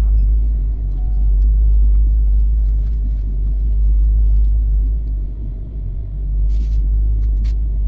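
Steady low rumble of the Duronto Express train coach, with a few faint clicks about two-thirds of the way in.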